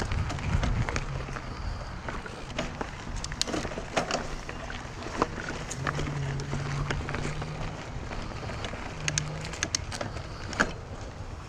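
Mountain bike riding over a sandy dirt trail: tyre noise, wind on the microphone, and frequent clicks and rattles from the bike over bumps. A low steady buzz comes in about six seconds in and again briefly near the end.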